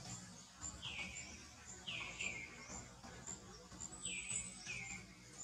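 Birds calling: short whistled calls, each falling in pitch, repeating about once a second and sometimes in quick pairs, over a fainter, faster high-pitched ticking.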